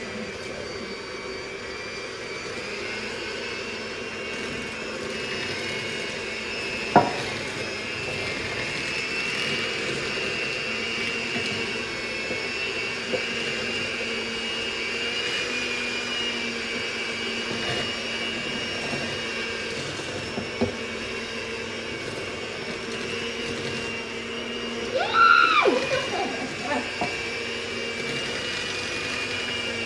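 Electric hand mixer running steadily, beating cookie dough with butter chunks in a bowl, with a sharp clack about a quarter of the way in and a brief louder rising-and-falling sound near the end.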